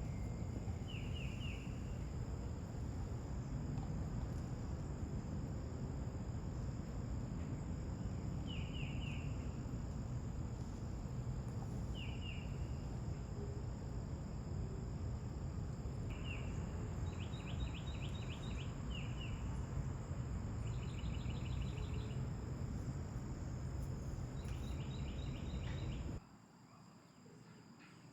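Outdoor evening ambience: steady insects with a high, even buzz, over a low rumble. A bird calls in short quick trills of three or four notes, repeated many times. The sound drops off sharply near the end.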